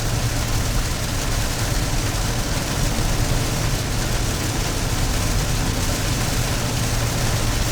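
Steady cabin noise of a car driving in rain: a low engine hum under an even hiss of tyres on the wet road.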